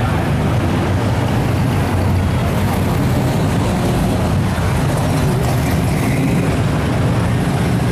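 Car engines running in a steady low rumble as parade cars drive by.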